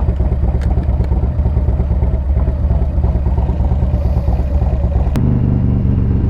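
Motorcycle engine running while riding, its low exhaust note steady and loud. About five seconds in there is a sharp click, and the engine note then settles into a smoother, even hum.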